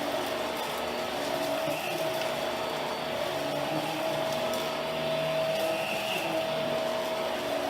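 Hoover Power Drive Pet running steadily, its motor giving a constant whine over a broad rushing noise.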